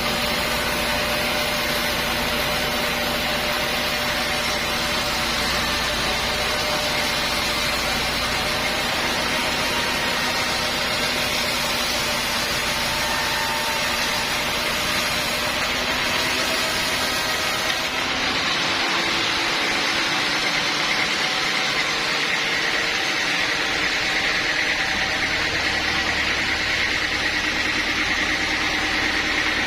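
Sawmill machinery running steadily, an engine-like hum with steady tones. About eighteen seconds in the sound shifts: the deep rumble drops away and a higher whine grows stronger.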